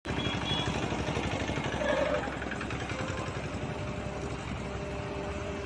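Excavator's diesel engine running steadily under work, a little louder for the first two seconds before settling.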